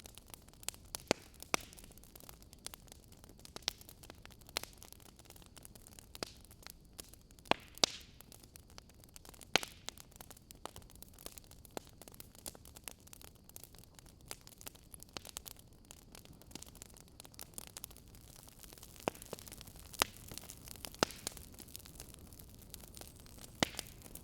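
Wood fire crackling: irregular sharp pops and snaps, a few much louder than the rest, over a faint steady hiss.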